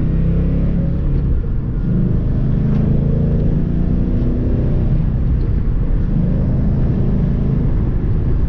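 Ford Mustang 5.0 V8 running on its stock exhaust while driving, a low engine note whose pitch shifts slightly up and down.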